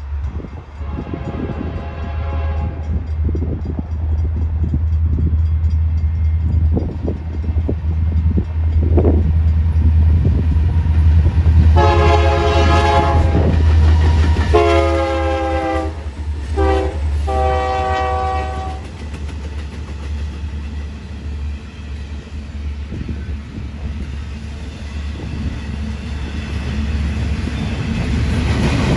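Union Pacific diesel locomotive passing with a steady deep engine rumble, sounding its chord horn: a faint blast early, then the grade-crossing pattern of long, long, short, long. Clicks and wheel noise from the freight cars build near the end.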